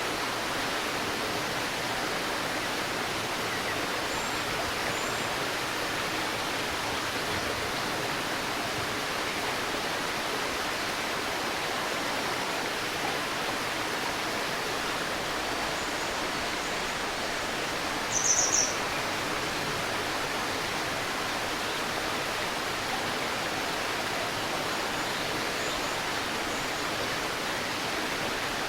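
A stream murmuring steadily over rocks, an even rushing of water. A bird gives a short, high call about two-thirds of the way through, with a few faint chirps earlier.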